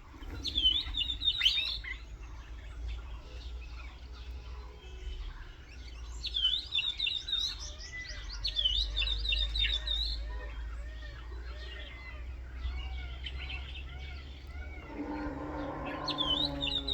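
Birds singing: a high, quick warbling phrase repeats three times over many softer chirps, with a low rumble underneath. A lower pitched sound joins near the end.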